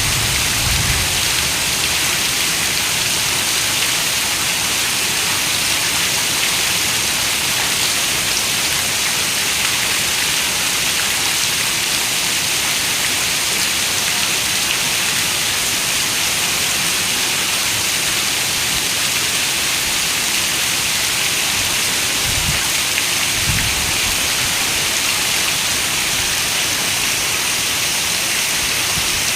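Heavy rain falling steadily on a window, an even hiss with no letup. Two brief low rumbles of thunder, about a second in and again near the end.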